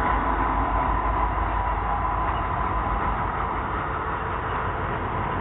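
A heavy loaded coal train's cars rolling past on the rails in a steady run, with a faint high-pitched ring over the first couple of seconds.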